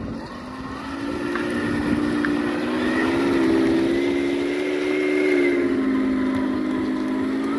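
Heng Long 1/16 Leopard 2A6 RC tank driving, a steady motor whine that rises in pitch about a second in and falls back near the end.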